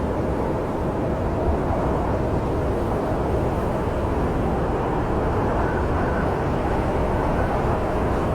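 Steady low rumble of snowstorm wind. Faint whistling tones come in during the later part.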